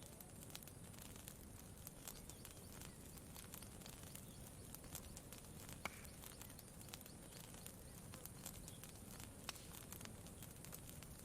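Campfire crackling faintly, with small irregular pops and one sharper pop about halfway through, over a low steady background wash.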